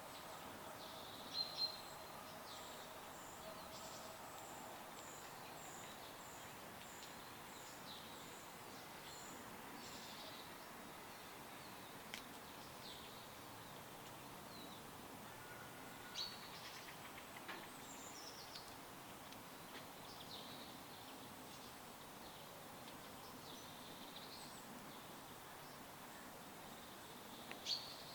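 Several songbirds chirping and calling at different pitches over a steady soft hiss. In the first few seconds one bird repeats a short high note about twice a second, and the loudest chirps come near the start, about halfway, and right at the end.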